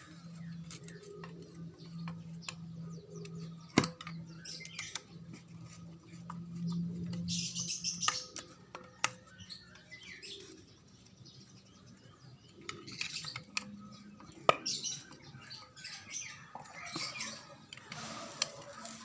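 Scattered clicks and knocks of hand-tool work on a grass cutter, with two sharper knocks about four seconds in and about two-thirds through. Short high chirps come and go, and a low steady hum fades out about eight seconds in.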